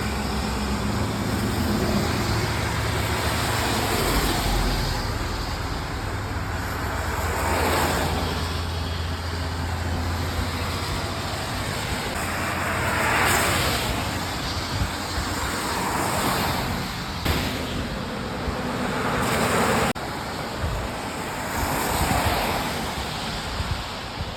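Road traffic: vehicles pass one after another every few seconds, each rising and fading as a swell of tyre and engine noise, over a low engine hum in the first part.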